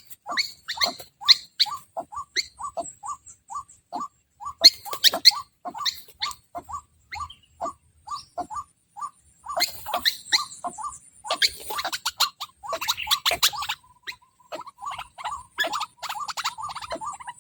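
White-breasted waterhen calling: a long run of short, harsh repeated notes, about three a second, broken by a few clicks.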